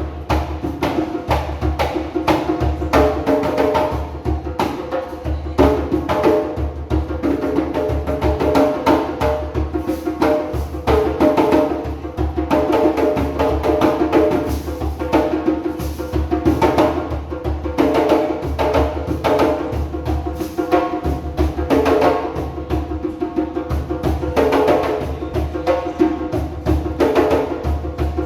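Several djembe drums played by hand in a steady, fast rhythm, deep bass strokes mixed with sharp higher slaps, in an echoing subway space.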